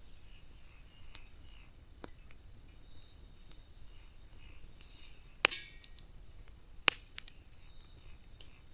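Wood campfire crackling: scattered sharp pops, the loudest about five and a half seconds in with a short crackle after it and another a little later, over a faint steady hiss.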